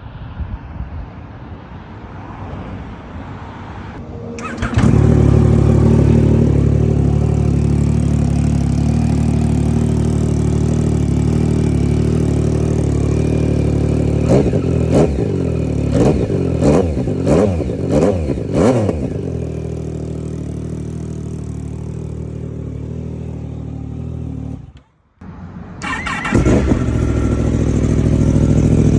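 Yamaha sport motorcycle engines: one bike starts about five seconds in and idles, then is blipped up and down about six times before settling back to idle. After a brief cut, a second bike starts and runs steadily to the end.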